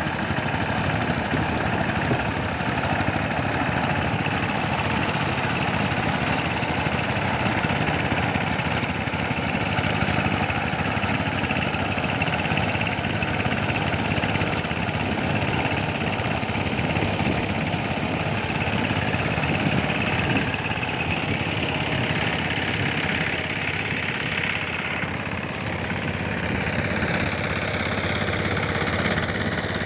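A two-wheel power tiller's single-cylinder diesel engine running steadily with a fast chugging beat. A faint high tone slides in pitch over the last few seconds.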